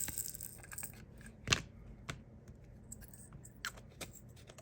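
Light, irregular clicks and taps of diamond painting supplies being handled: plastic drill tray, applicator pen and drill bags, with one sharper tap about one and a half seconds in.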